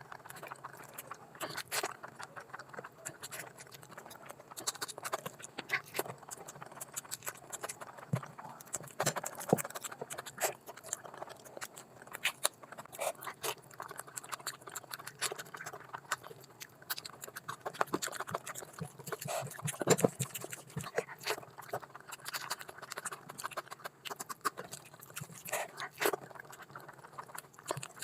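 Close-miked eating sounds of a person eating curry with rice: chewing and many short, irregular mouth clicks and snaps.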